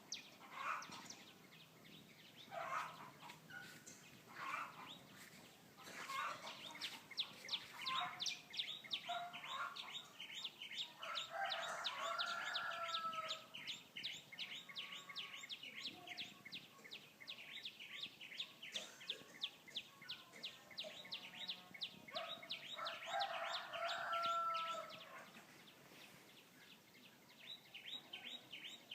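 A rooster crows twice, each crow lasting a couple of seconds, over a dense run of fast, high chirping from small songbirds. Scattered shorter bird calls come in the first ten seconds or so.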